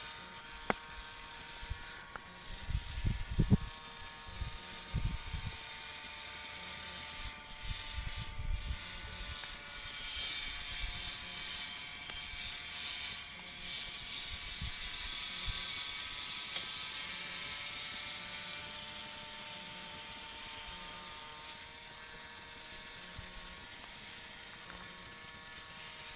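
A small electric motor running with a steady whine, with a few irregular low thumps in the first half.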